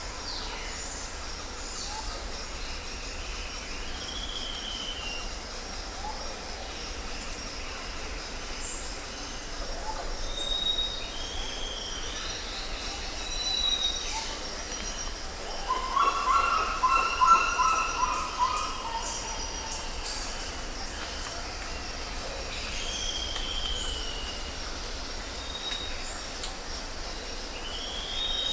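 Jungle ambience: many birds giving short whistles and arched calls over a steady high insect hum. A little past halfway comes the loudest call, lower and with several tones together.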